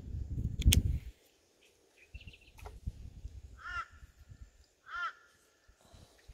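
A bird calling twice, about a second apart, each a short call that rises and falls in pitch, with a fainter call just before them. In the first second, a loud low rumble with a sharp knock.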